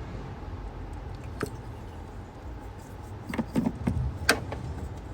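Light plastic clicks and knocks of ignition coils being worked loose by hand from the engine's cylinder head, one click about a second in and a cluster of sharper ones near the end, over a low steady hum.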